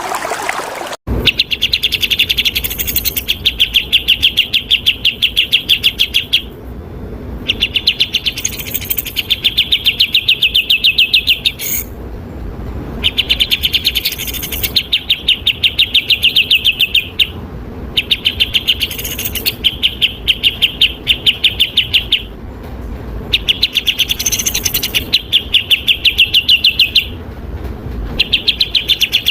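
Songbird singing long, very rapid trills, each phrase lasting several seconds with short pauses between, repeated again and again. About a second in, running water cuts off abruptly as the bird song starts.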